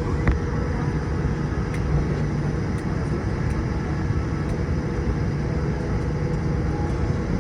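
Steady low cabin noise inside a Boeing 787-8 on the ground, from its engines and air systems running, with a single click just after the start.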